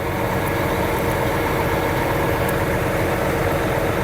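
Heavy diesel engine of construction machinery running steadily, a constant low rumble with a steady hum.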